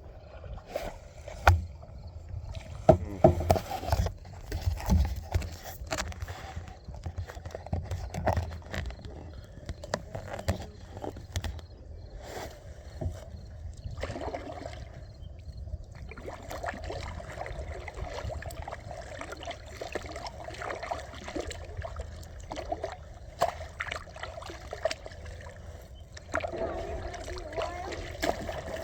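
Paddle strokes in lake water and water sloshing against a paddleboard or kayak, with irregular splashes and knocks over a low wind rumble on the microphone.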